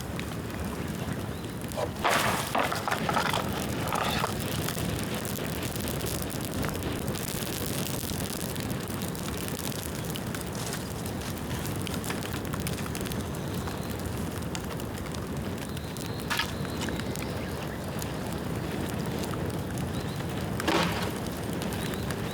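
Bamboo bonfire burning with a steady rushing crackle, with a few louder pops about two to four seconds in and again near the end.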